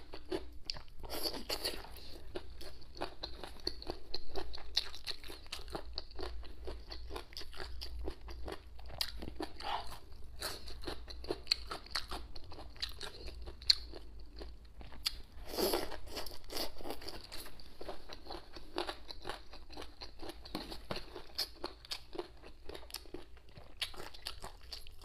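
Chewing and crunching of boneless chicken feet tossed with cucumber and red onion: a steady run of small wet crunches, with a louder bite about a second in, another about four seconds in and a third near the middle.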